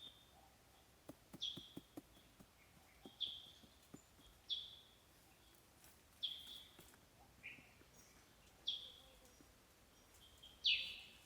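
Short, high bird chirps repeating every second or two, with a few faint knocks in the first few seconds.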